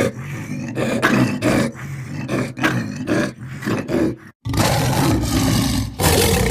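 Lion roaring: a run of short roars, about two a second, then after a brief break around four seconds in, two long, loud roars back to back.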